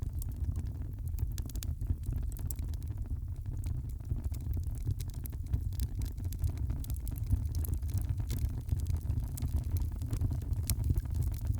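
Fireplace fire crackling, with frequent sharp pops and snaps over a steady low rumble.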